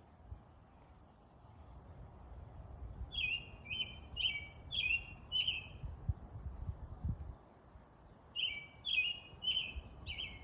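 A songbird singing two phrases of about five quick repeated notes each, a few seconds apart, with a few faint high chips before the first, over a low steady rumble.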